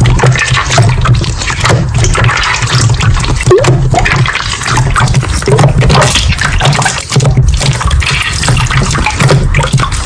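Slime being squished and worked by hand: wet squelching with dense, irregular crackling clicks. A steady low hum runs beneath.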